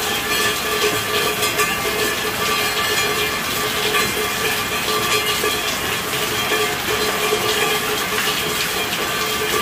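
Steady rainfall: a dense, even hiss of many raindrops, with a few faint steady tones underneath.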